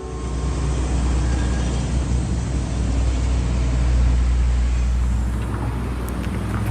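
Road vehicle noise: a motor vehicle's engine rumble and road noise, swelling slightly midway.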